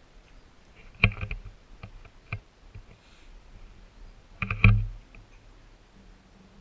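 Two clusters of sharp knocks and clicks, about a second in and again near four and a half seconds, with a few single clicks between, heard through a GoPro's waterproof housing.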